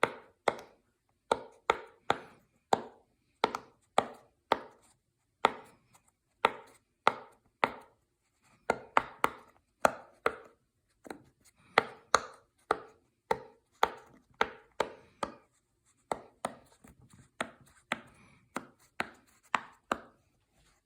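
Silicone pop-it fidget toy bubbles being pressed through one after another, each giving a sharp pop, about two a second at an uneven pace.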